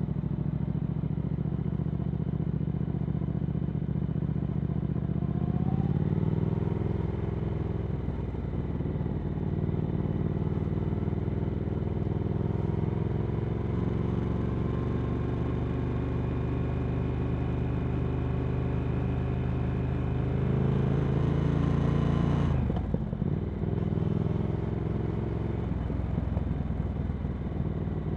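Triumph Speed Twin 1200's parallel-twin engine running through a Vance & Hines slip-on exhaust on the move. The revs rise briefly about six seconds in, then climb slowly for about fifteen seconds before dropping suddenly, and the engine runs steadily at lower revs after that.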